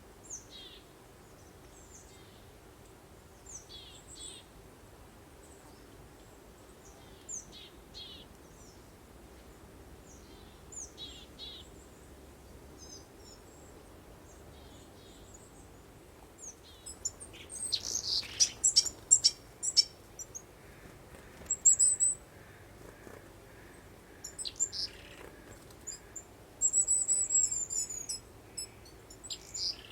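Songbirds singing: a short high call repeats every few seconds, then from about halfway the chirping grows busier and louder with quick warbled phrases, over a faint steady background hiss.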